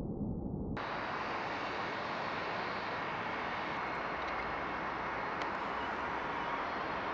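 Jet airliner engines running: a steady rush of noise with a faint high whine, which replaces a muffled low rumble less than a second in.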